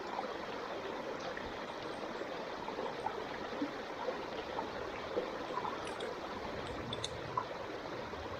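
Wood fire burning: scattered small crackles and pops over a steady rushing noise.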